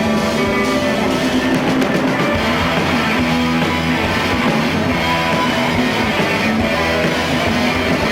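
Live rock band playing an instrumental passage: two electric guitars over bass and drum kit, steady and loud.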